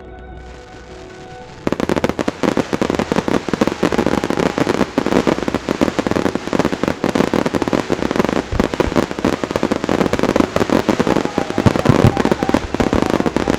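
Quiet music, then about a second and a half in a dense fireworks barrage starts suddenly: rapid, overlapping booms and crackles of many shells bursting at once, without a pause.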